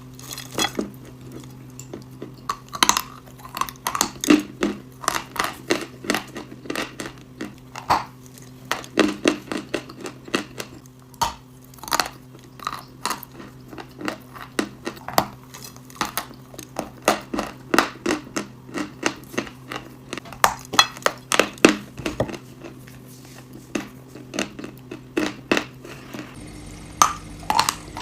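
Close-miked crunching and chewing: hard, brittle food such as chalk, clay or nuts being bitten and crushed, in irregular crisp cracks several times a second. A steady low hum runs underneath and shifts about 26 seconds in.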